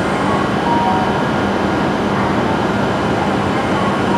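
Steady hum and fan noise of a Shinkansen train standing at the platform with its onboard equipment running, a low constant tone under an even rushing noise that does not change.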